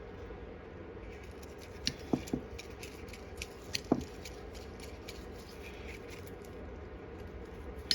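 Light clicks and taps of small metal carburetor parts and a welding tip cleaner being handled: a few sharp ticks about two seconds in and another pair near four seconds, over a faint steady hum.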